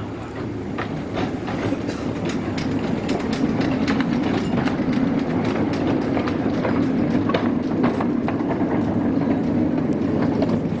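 Narrow-gauge railway train running close by, its wheels rumbling and clicking over the rail joints. It grows louder over the first few seconds.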